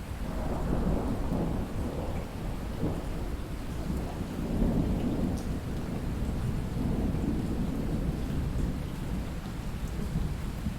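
Light rain falling steadily while distant thunder rumbles. The rumble swells about half a second in and rolls on at length, loudest around the middle.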